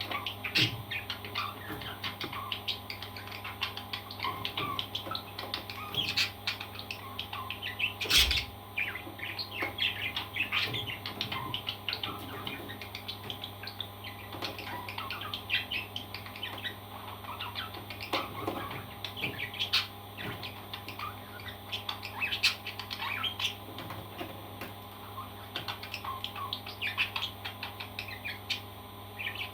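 Parrots chirping and squawking continually in many short, quick calls, with one sharp knock about eight seconds in.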